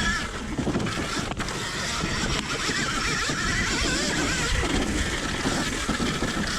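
Alta Redshift electric dirt bike being ridden: a motor whine that rises and falls with the throttle, over steady wind noise on the microphone and the rush of knobby tyres on dirt.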